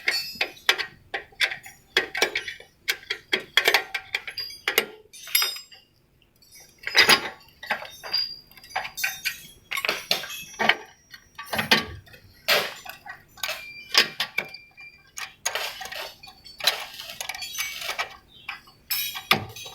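Metal hand tools clinking and knocking against metal truck parts, irregular clanks with short metallic ringing, while the exhaust brake unit is being unbolted.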